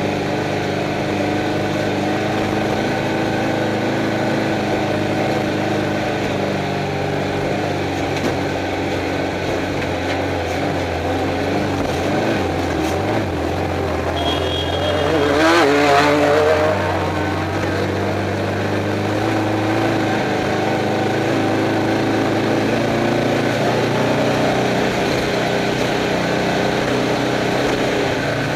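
Stock VW Beetle's air-cooled flat-four engine running steadily under way, heard from inside the car over road and wind noise. About 15 seconds in, a louder wavering burst rises and falls over a second or so.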